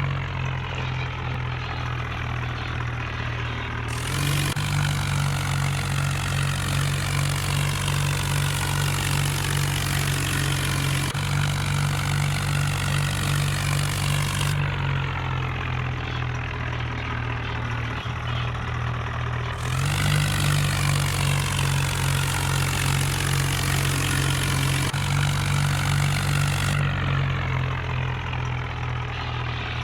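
Tractor engine running steadily at a constant speed, with its low hum changing abruptly several times.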